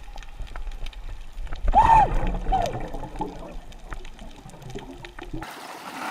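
Water splashing and trickling, with a brief rising-and-falling cry about two seconds in and a smaller one just after.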